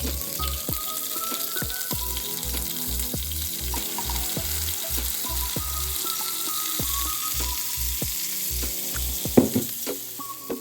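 Pancake batter frying in butter in a pan, a steady sizzle, over background music with a pulsing bass line. A sharp knock about nine seconds in.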